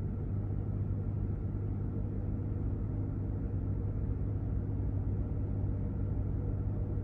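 Ram TRX pickup running, a steady low drone with a hum that holds the same pitch throughout.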